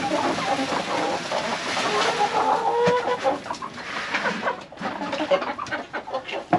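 Several laying hens clucking together, a stream of short overlapping calls, with scattered small clicks in the second half.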